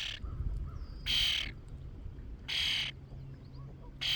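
A bird giving short, harsh calls, three in a row about a second and a half apart.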